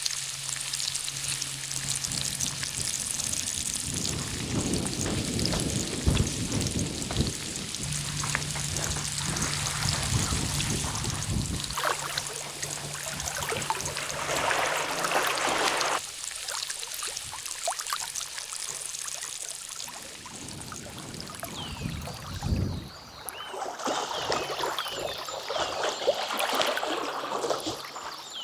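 Water splashing and trickling, with a continuous rushing noise that swells and dips.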